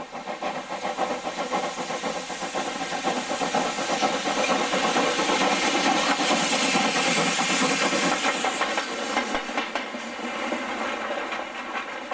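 Steam locomotive running past with a hiss of steam, growing louder to a peak about seven seconds in, then falling away.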